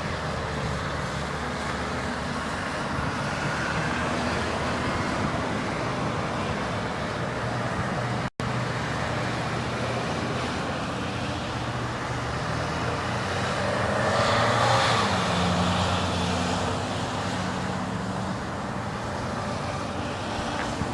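Diesel-hauled GO Transit commuter train running, a steady engine drone that swells to a peak about two-thirds of the way through with a gliding higher whine, then eases off. The sound cuts out for an instant about 8 seconds in.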